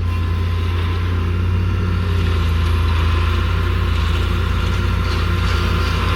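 Engine of heavy equipment running steadily, a deep even hum that grows slightly louder about two seconds in.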